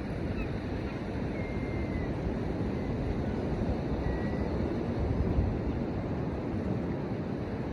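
Steady rushing of surf and wind on the shore, with wind on the microphone. Two faint, short, thin high bird calls come through, about a second and a half in and again about four seconds in.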